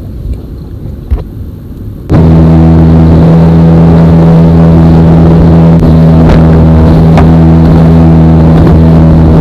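Motorboat engine running loud and steady at one constant speed, starting abruptly about two seconds in after a quieter stretch.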